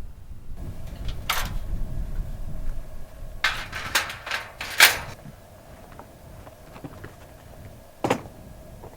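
Low rumble for the first few seconds, then a run of sharp knocks and clunks, loudest about five seconds in, with one last knock near the end.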